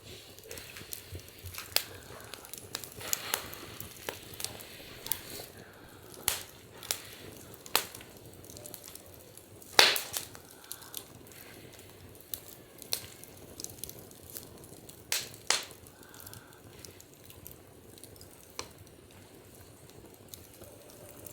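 Wood fire crackling, with irregular sharp pops and snaps over a soft steady hiss; the loudest pop comes about ten seconds in.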